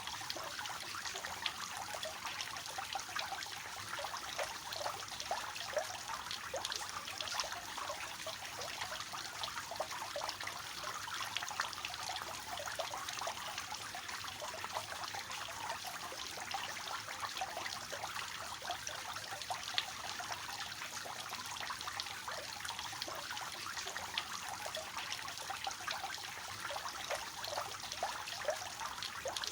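Water falling and splashing steadily from a three-tiered cascade fountain into its basins, a continuous light splashing and trickling.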